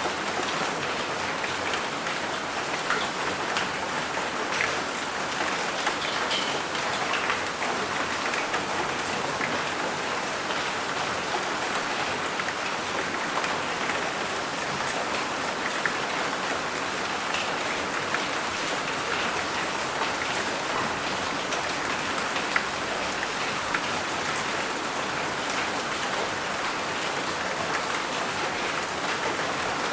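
Steady rain falling, with many individual drops ticking sharply against a surface.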